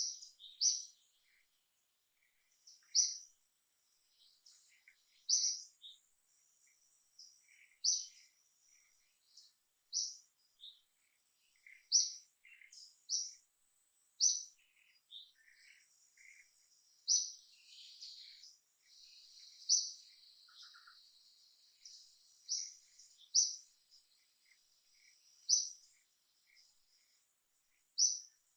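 Birds chirping: a sharp, high chirp repeated roughly every two seconds, with softer scattered calls between.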